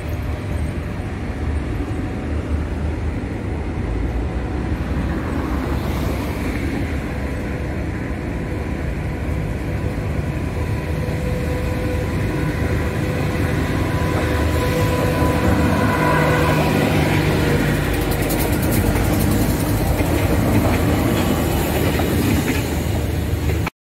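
Green-and-white passenger train approaching and passing close by on the rails: a steady rumble that slowly grows louder as it nears. The sound cuts off suddenly near the end.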